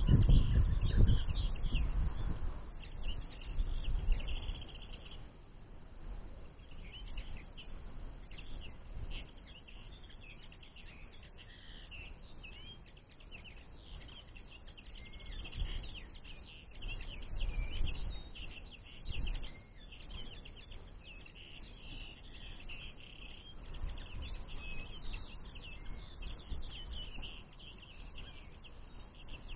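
Small songbirds chirping and twittering continuously, many short calls close together, over a low rumble that is strongest in the first couple of seconds and returns in gusts.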